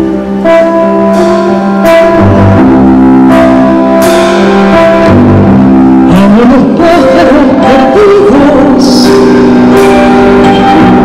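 Live acoustic music: sustained chords with guitar, joined about six seconds in by a gliding melody line that sounds like singing.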